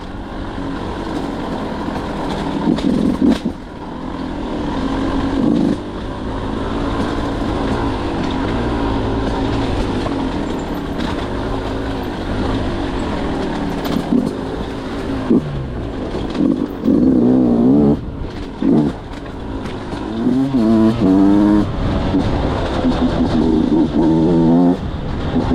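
Beta 200 two-stroke single-cylinder enduro motorcycle engine running under way, its revs rising and falling again and again, with quick up-and-down swings in the second half.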